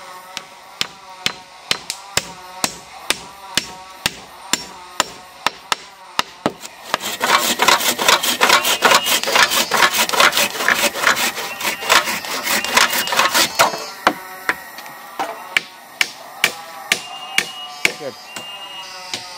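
A tool striking wood over and over, about two blows a second, then a louder, much faster flurry of strikes for about six seconds in the middle before slowing back to about two a second.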